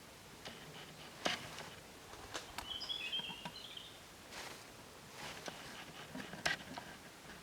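Quiet outdoor ambience with a few sharp clicks scattered through it and a short run of high, brief bird chirps about three seconds in.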